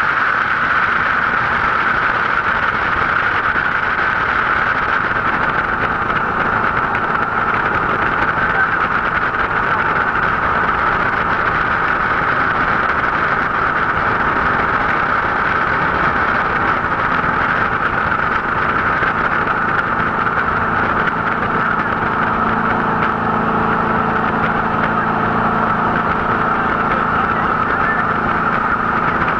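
Jet boat's engine and water-jet drive running steadily under way upstream, a constant loud drone with a rushing hiss over it.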